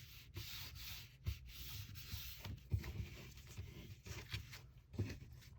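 Cardstock being handled and pressed down on a tabletop, with soft paper rubbing and a few light taps.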